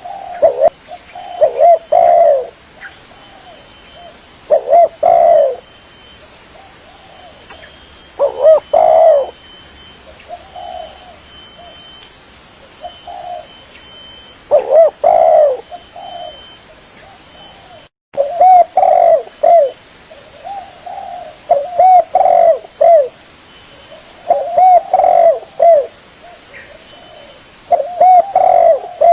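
Spotted dove (tekukur) cooing: loud phrases of several coos repeated every few seconds, with a brief dropout a little past halfway.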